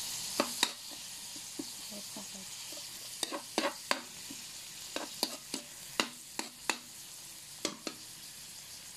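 Ground meat sizzling in oil in a wok while a spatula stirs it. There is a steady high hiss, and a dozen or so sharp clicks and scrapes where the spatula strikes the pan.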